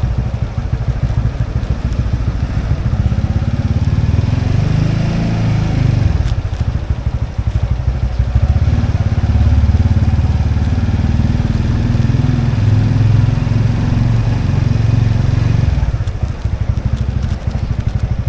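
Motorbike engine running under way, heard from on board, its sound swelling and easing with the throttle and dropping back near the end.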